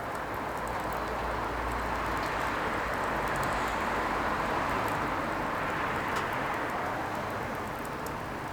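Firewood burning: a steady rushing noise with a few faint, sharp crackles, swelling slightly in the middle.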